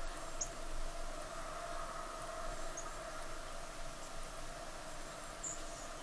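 Three faint, short, high bird chip notes, spaced a couple of seconds apart, over a steady hum.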